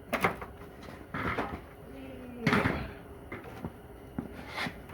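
Metal clunks and knocks from a Corvair Powerglide transmission being pulled apart by hand: four separate knocks, the loudest about two and a half seconds in.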